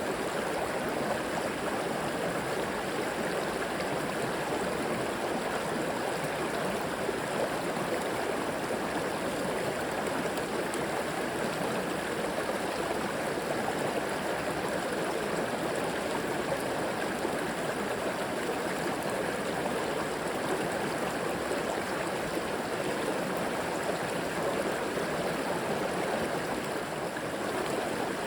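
River water flowing and gurgling steadily over rocks, a continuous rushing with no breaks.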